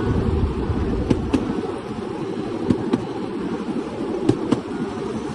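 Bamboo train running along its rails: a steady rumble with sharp clacks coming in pairs about every second and a half, as the wheels cross rail joints.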